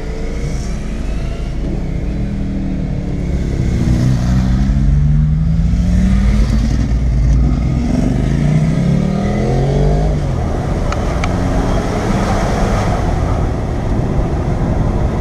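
Land Rover Freelander engine heard from inside the cabin, pulling the car out of a tight hairpin. Its note rises in pitch twice, about four and eight seconds in, as it accelerates, over a steady rumble of engine and road noise.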